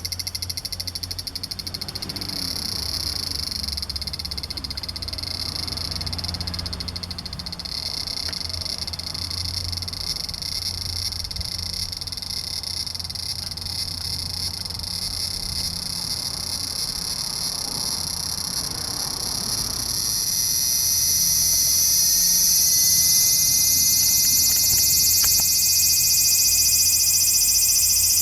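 Large brown cicada (abura-zemi) singing: a steady high buzz that swells louder about twenty seconds in.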